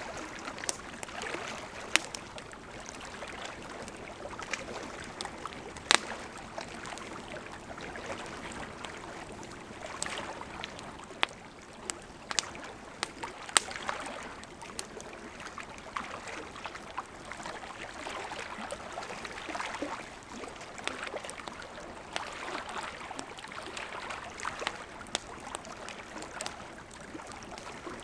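Wood campfire burning: a steady soft hiss with irregular crackles and pops, and a handful of sharper, louder snaps.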